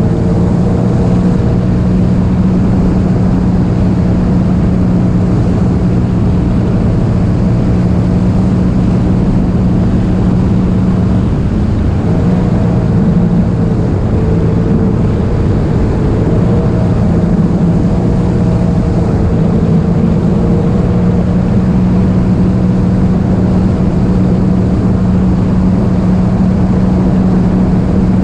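Jet ski engine running steadily at speed, with a continuous drone. Its pitch drops and wavers briefly about halfway through, then holds steady again.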